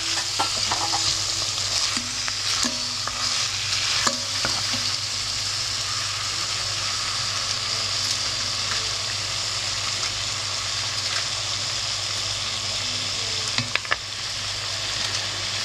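Frozen stock slabs melting on long-browned onions in a hot pot, sizzling steadily. A few light clicks of a wooden spoon against the pot near the start and again near the end.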